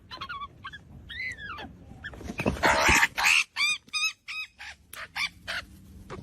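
An animal calling in a run of short chirps that rise and fall in pitch, about four a second at their quickest, with a loud, noisy squawk-like burst about two and a half seconds in.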